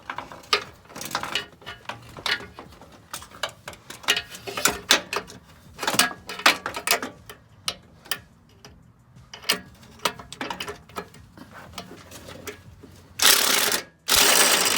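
Scattered metallic clicks and clinks of tools and sockets being handled. Near the end come a loud run from a Kobalt impact wrench lasting about a second, a brief pause, and a second run.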